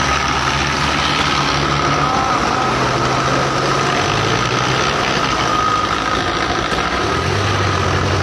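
Belarus 510 tractor diesel engines running under load, their low note stepping up and down a few times as the engine speed changes, with a steady whine above.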